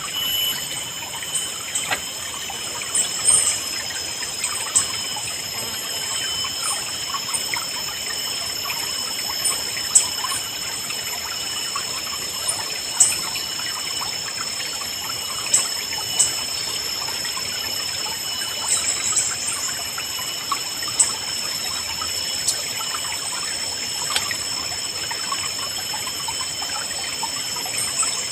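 A river babbling steadily, with short bird chirps every few seconds over a steady high-pitched tone.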